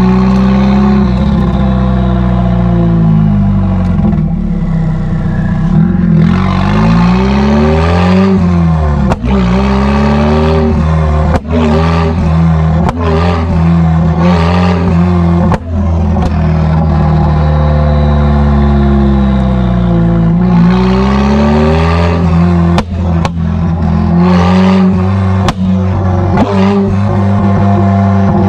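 Straight-piped Nissan S15 200SX's turbocharged SR20DET four-cylinder engine and exhaust under driving, the pitch climbing and falling repeatedly as it accelerates and shifts. From about a third of the way in to near the end, sharp cracks and pops cut through the engine note.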